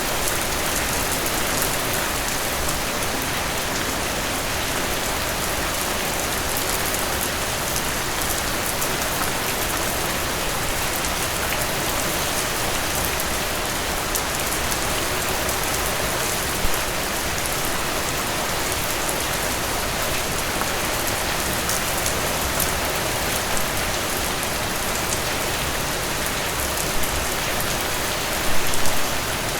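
Steady rain falling on a hard surface, an even hiss of many drops, with a few louder drips standing out briefly, most near the end.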